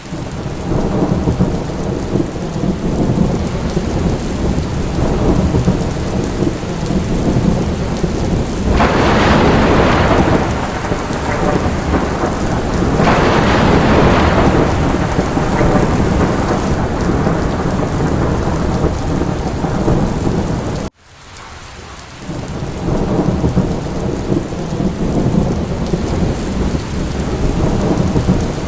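Steady heavy rain over a continuous low thunder rumble, with two louder rolls about nine and thirteen seconds in. About two-thirds through, the sound cuts out suddenly and fades back in over a couple of seconds.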